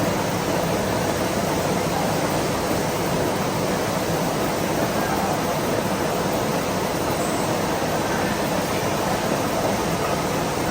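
Steady, even machine-shop noise, with no distinct knocks, tones or changes.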